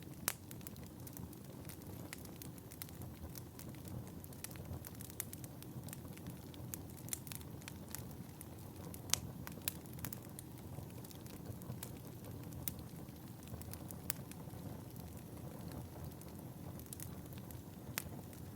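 Fire in a fireplace, crackling and popping: a steady low rumble of flames with irregular sharp pops throughout, a few of them louder, about nine seconds in and near the end.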